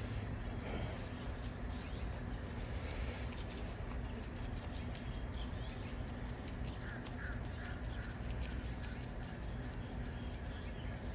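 Outdoor background with a steady low hum, faint ticking, and a few short, faint bird chirps about seven seconds in.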